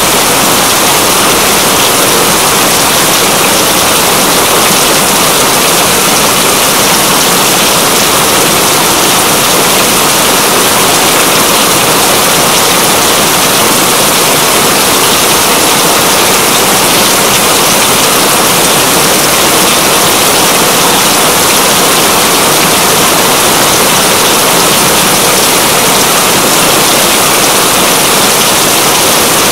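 Steady, heavy rain: a dense, even hiss of falling rain that does not change.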